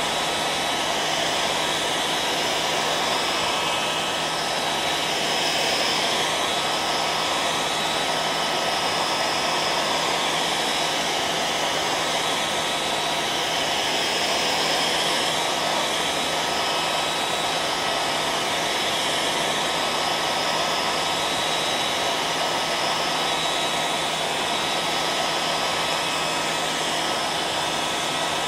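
Hair dryer running continuously at a steady speed: an even blowing rush with a thin steady tone running through it.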